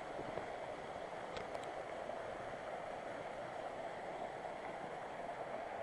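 Steady rushing of a mountain river flowing through a rocky canyon.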